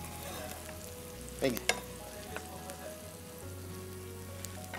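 Boiled eggs frying in spiced oil in a wok, a steady sizzle, with a metal spoon stirring and knocking twice against the pan about a second and a half in.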